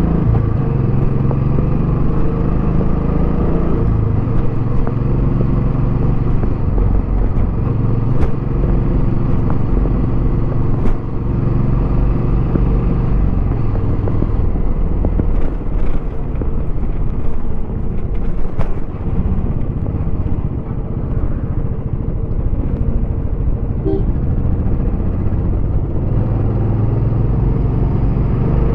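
Royal Enfield Bullet 350X's single-cylinder engine running through its stock exhaust while the bike is ridden. The engine note changes with the throttle, briefly falling away about two-thirds of the way through before it picks up again.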